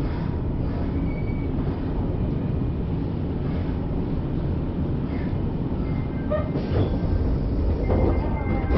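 Kyoto Municipal Subway Karasuma Line train heard from inside the car, with a steady low rumble of the running train. Near the end there are some brief higher tonal sounds.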